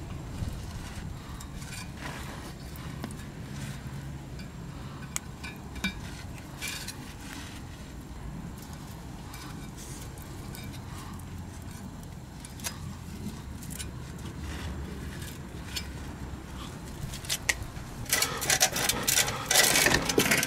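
Light metallic clinks and taps of an exhaust pipe and clamp coupling being handled and fitted, over a steady low hum. Near the end comes a louder run of metal clatter.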